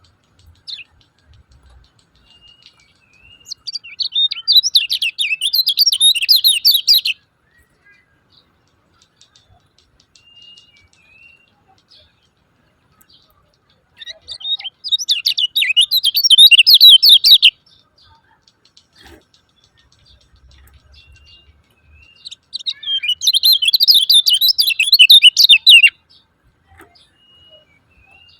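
Kecial kuning (lemon-bellied white-eye) giving its 'ciak ciak' chatter. It comes in three loud bouts of rapid, high chirping, each about three seconds long, with faint single notes between them.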